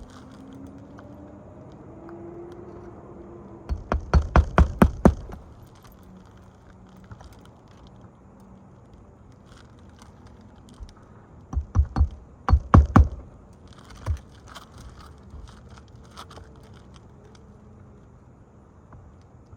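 Quick runs of sharp strikes from nailing replacement asphalt shingles during a roof repair: a burst of about seven blows about four seconds in, another close cluster about twelve seconds in, and one more strike shortly after.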